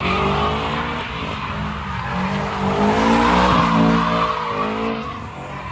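Car engine revving, its pitch rising and falling, with tires squealing and skidding on pavement; the squeal is loudest about three to four seconds in.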